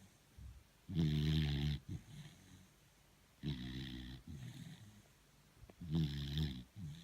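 A sleeping beagle snoring. There are three deep, buzzing snores, about two and a half seconds apart, and each is followed by a shorter, softer sound.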